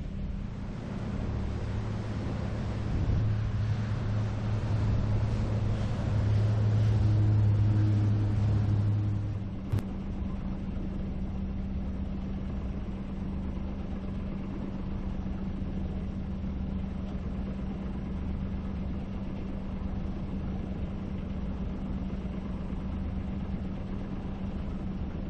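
Boat engine running steadily with a low hum. A louder, deeper hum with more noise fills the first part and stops abruptly with a click about ten seconds in, leaving the steady engine drone.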